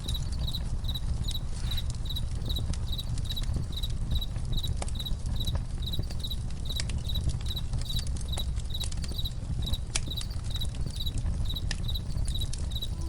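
A cricket chirping in an even rhythm, about two or three chirps a second, over a campfire crackling with scattered sharp pops and a steady low rumble.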